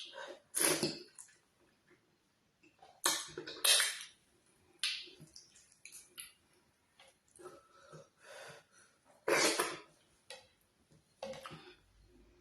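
Close-miked eating sounds of ogbono soup and oatmeal fufu: wet mouth and chewing noises coming in about half a dozen short, irregular bursts with quiet gaps between.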